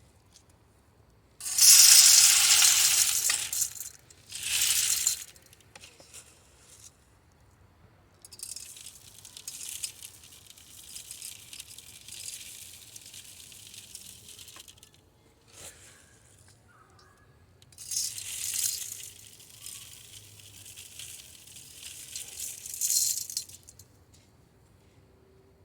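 Loose bird seed mix of chicken scratch and black oil sunflower seeds poured into a bird feeder, a hissing rattle of many small seeds, in four pours. The first pour, about a second and a half in, is the loudest, and the third is the longest and quietest.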